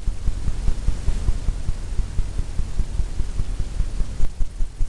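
Fan brush tapped rapidly against a stretched canvas: a quick, uneven run of dull low thumps, several a second.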